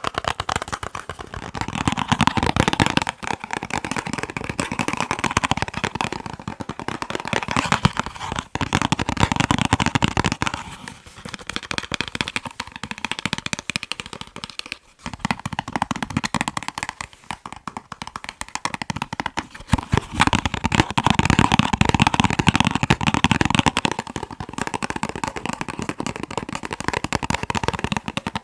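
Fingers tapping rapidly and continuously on boxes, the taps coming in stretches that swell and fade, with a short break about fifteen seconds in.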